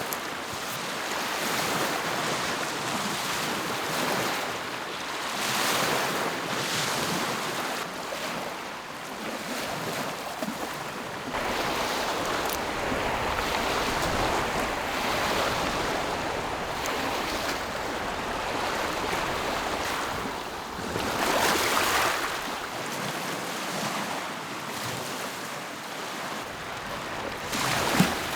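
Lake waves washing against the shore, rising and falling in swells, with a brief knock near the end.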